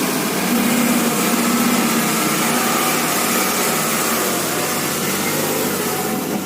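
A small motor running steadily with a buzzing hum.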